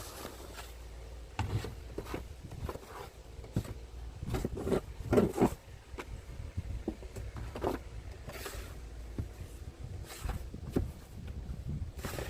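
Snow shovel scraping and knocking through snow in an uneven series of strokes, the loudest about five seconds in, over a low rumble of wind on the microphone.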